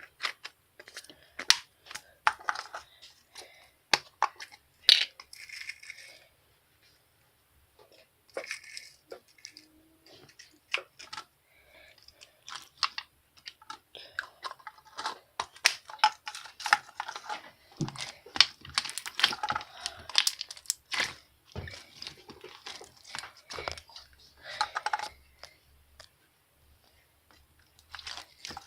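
Close-up crinkling, tearing and clicking handling noises in irregular bursts, with a short pause about seven seconds in.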